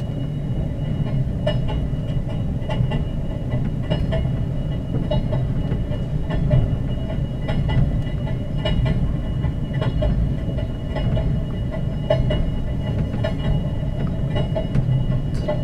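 Passenger train heard from inside a carriage, rolling slowly out of a station: a steady low rumble with frequent clicks and knocks from the wheels over the rails.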